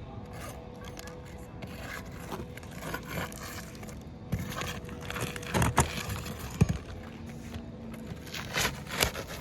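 Scraping of an asphalt roof shingle, with a few sharp knocks, as the shingle is worked loose and its rusted nails are pried out. The knocks cluster about halfway through and again near the end.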